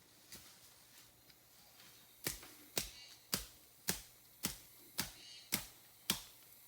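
Eight sharp, evenly spaced strikes, a little under two a second, starting about two seconds in.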